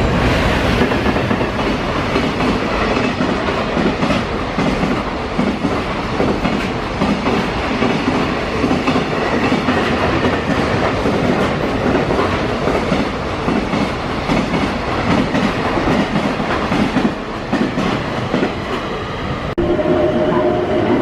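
Freight train passing, its wagons' wheels clattering over rail joints. About a second and a half before the end it cuts sharply to a steady two-tone hum.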